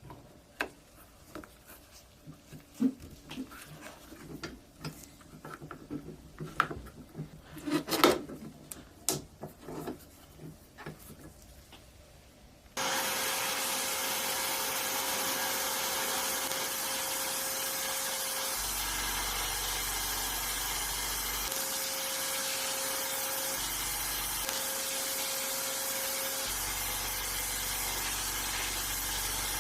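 Scattered clicks and knocks of small parts and tools being handled. About 13 seconds in, a loud, steady hissing tool noise starts abruptly, with a steady hum that cuts in and out several times, like an air or power tool working on the toy truck's metal body.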